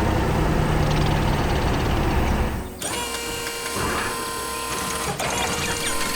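Cartoon machine sound effects: a steady mechanical whirring for about three seconds, then a quieter machine sound made of several held tones.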